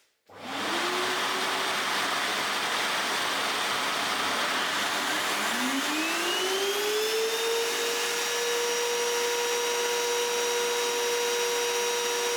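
A vacuum-type dust-extraction motor starts with a sudden loud rushing hiss. About five seconds in, a router motor spins up, its whine rising in pitch over a couple of seconds and then holding steady at full speed.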